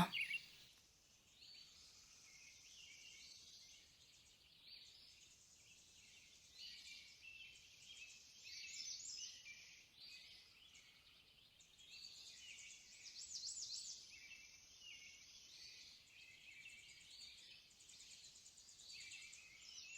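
Faint birdsong: small birds chirping and trilling on and off, a little louder in the middle.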